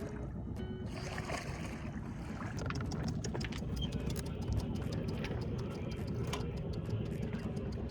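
Sailboat under way: a steady low rumble of the hull moving through the water, with many small sharp ticks and splashes from about two and a half seconds in.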